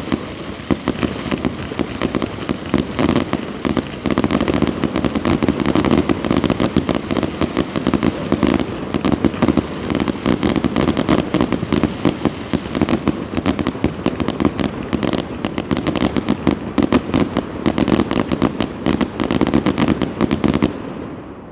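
Fireworks display: a dense, continuous barrage of rapid bangs and crackling that stops suddenly near the end.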